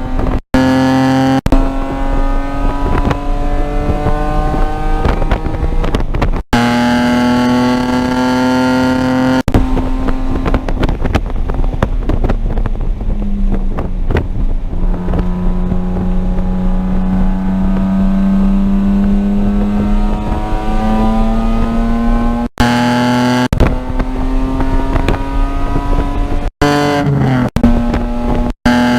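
Car engine driven hard around a race track. The note climbs, then cuts out briefly several times for gear changes, sinks to a lower note about halfway through, and rises again toward the end.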